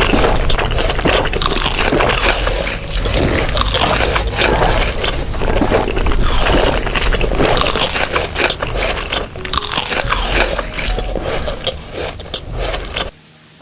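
Close-miked chewing and crunching of food, with wet mouth sounds and sharp crackles throughout. It stops abruptly near the end.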